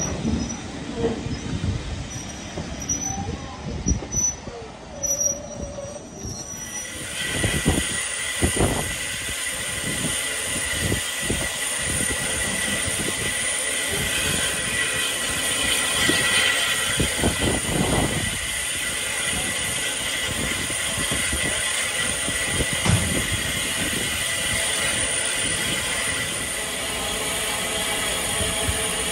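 Train on a heritage steam railway running. About seven seconds in, a steady high squeal over a loud hiss sets in and holds, with scattered knocks underneath.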